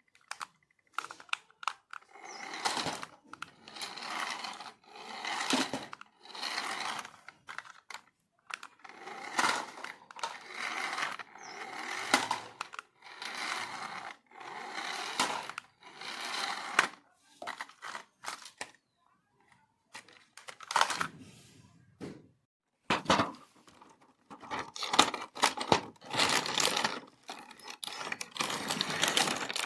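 Crinkling, tearing and scraping of plastic and cardboard packaging being handled, in irregular bursts of a second or two with short pauses between them.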